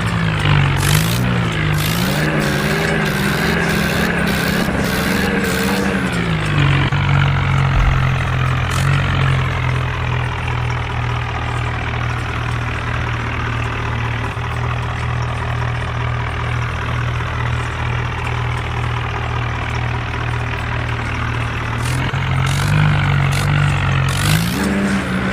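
A tractor engine running, its pitch wavering up and down with sharp clicks for the first six seconds, then holding a steady low drone before wavering up again near the end.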